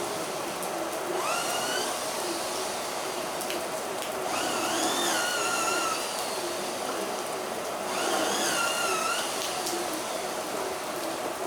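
Heavy rain falling as a steady hiss. Three times it is joined by a high, wavering whine about a second long, each one rising in pitch and then holding.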